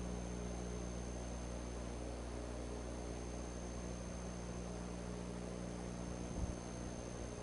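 Steady hiss and electrical hum from a nest camera's microphone, with one brief low thump about six seconds in.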